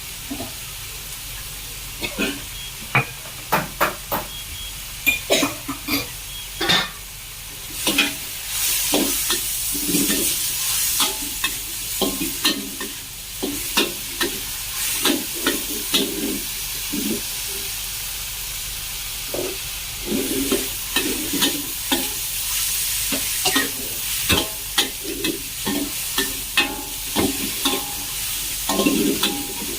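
Chicken Thai basil stir-frying in a hot pan: a steady sizzle with frequent irregular scrapes and clacks of a spatula against the pan.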